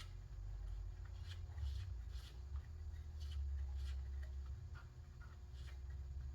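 Irregular light scrapes and clicks of hands working a wheel's tire and tube on a workbench, over a steady low hum.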